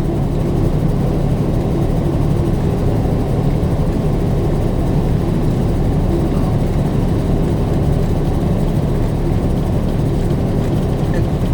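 A truck's engine running steadily, heard inside the cab as an even low rumble.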